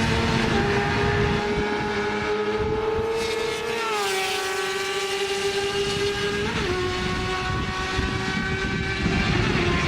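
Sport motorcycle engine running at high revs. Its high-pitched whine falls sharply about four seconds in and again near seven seconds.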